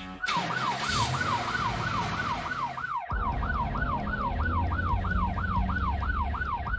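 Emergency vehicle siren in a fast yelp, sweeping up and down about three times a second, over a vehicle engine rumble. About three seconds in, a hissing noise stops and the engine rumble gets heavier.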